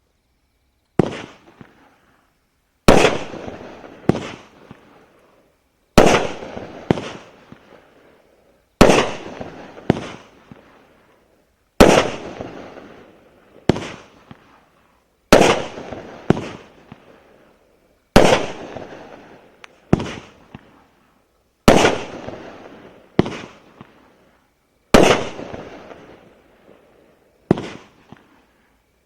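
A 16-shot, 30 mm fireworks cake firing: a sharp bang every one to two seconds, each one trailing off over about a second.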